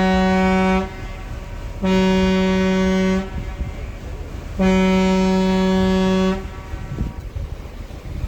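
Paddle boat's horn sounding long steady blasts: one ending just after the start, then two more of about a second and a half each, with water and engine noise beneath.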